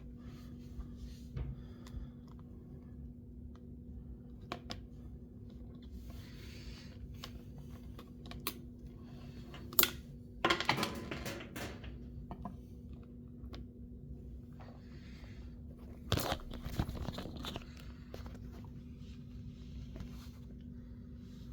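Earphone packaging being handled: scattered small clicks and taps, with two bursts of crinkling, tearing-like rustle about ten and sixteen seconds in, over a steady low hum.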